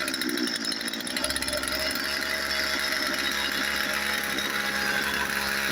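Craftsman 36 cc two-stroke chainsaw engine running steadily.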